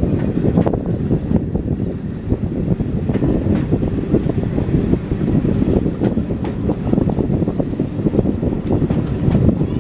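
A train running along the line: a loud, continuous rumble, with wind buffeting the microphone.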